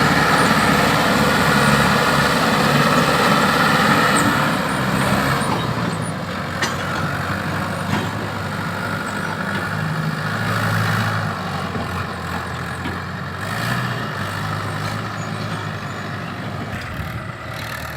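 Heavy diesel machinery engine running hard, then dropping to a quieter, lower speed about four and a half seconds in, with its pitch shifting as the load changes.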